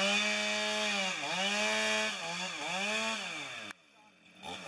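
Chainsaw cutting through the spruce trunk in a felling cut, its engine pitch repeatedly sagging under load and recovering. It cuts off abruptly about three and a half seconds in and leaves a brief near silence.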